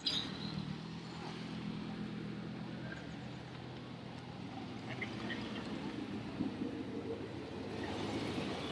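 A car's engine running at low revs as it rolls slowly by, a steady low hum that turns into a broader rumble partway through, with a sharp click at the very start.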